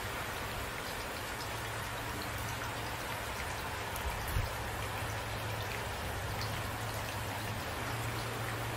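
Steady rain falling, with individual drops ticking now and then. There is a brief low thump about four seconds in.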